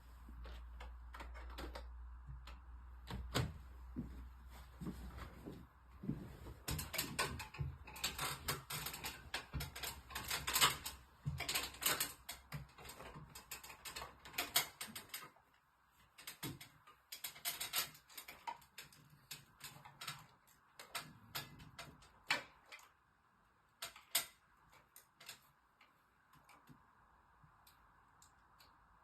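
Irregular clicks, taps and light rattles of small parts and hand tools being handled during air-conditioner repair work, thickest in the middle and thinning out later. A low hum runs under the first half and stops about halfway through.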